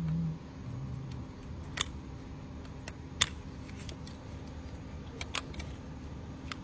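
Scattered sharp metallic clicks and clinks of hand tools, about six in all, while spark plugs are being removed from an Audi RS6 engine, over a steady low hum.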